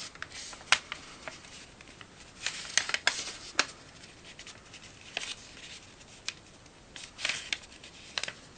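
Paper being folded and creased by hand: short crisp rustles and sharp snaps, coming in several separate bursts.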